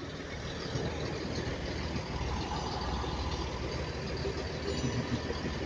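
Diesel engine of a Northern Class 195 multiple unit running as the train creeps slowly forward, a steady low rumble that swells a little about two seconds in.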